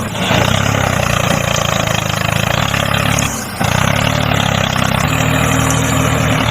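Mini tractor's motor running steadily, dropping off briefly a little past three seconds in before carrying on.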